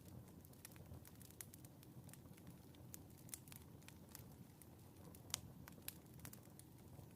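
Wood fire in a fireplace crackling faintly: irregular sharp pops, a few a second, with one louder pop about five seconds in, over a low steady rumble.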